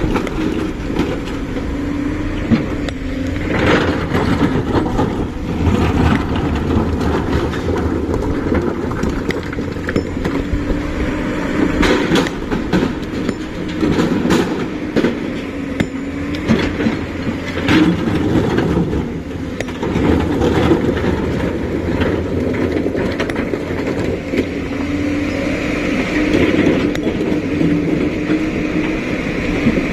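JCB 5CX backhoe loader's diesel engine running and working its hydraulics, the engine note rising and falling with load, with a few metallic clanks around the middle.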